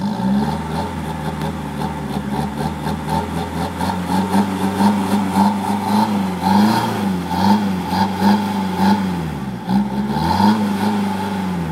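Ford Fiesta TDCi diesel engine with a downpipe and small muffler, blipped repeatedly in quick short revs about every 0.7 seconds, then settling back toward idle near the end.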